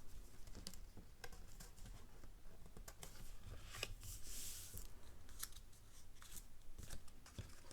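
Paper cardstock being handled and slid into slits in a paper page: faint rustling and scattered light ticks, with a brief scraping hiss of paper on paper about four seconds in.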